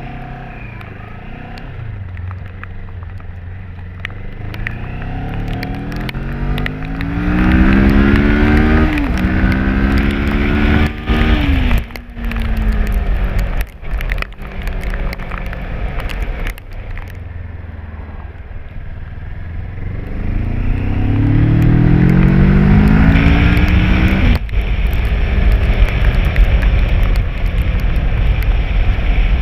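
Kawasaki ER-6n's 650cc parallel-twin engine accelerating hard, its pitch climbing and then dropping at each upshift, twice about 9 and 11 seconds in. It pulls through a second rising run about two-thirds of the way through.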